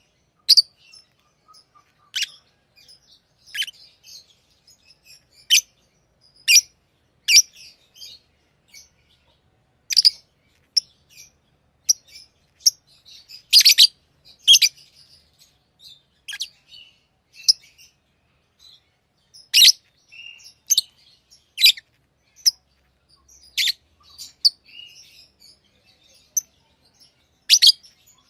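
Pet lovebirds giving sharp, shrill, high-pitched chirps at irregular intervals, about one a second, with softer twittering in between.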